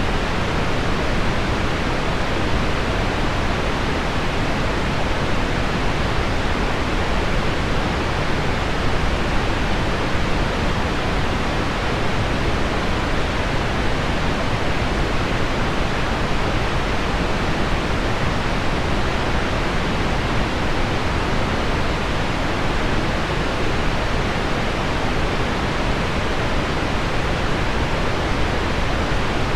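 Steady pink noise mixed with heavy rain on window glass: an even, unbroken hiss weighted toward the low end, with no separate drops standing out.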